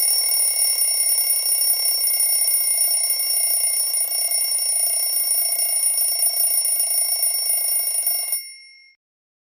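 A bell ringing steadily. The rattle cuts off about eight seconds in, and the bell's tone dies away over the next half second.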